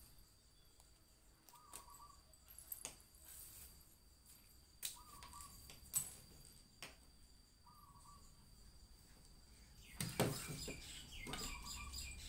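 Faint outdoor ambience: a short bird call repeating about every three seconds over a steady high whine, with scattered sharp taps and knocks as a toddler handles cards and toys on a wooden table, busiest near the end.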